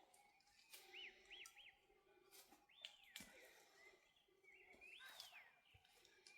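Faint bird calls: several arched whistled notes, including a quick run of three short ones about a second in, with a few soft clicks or knocks between them.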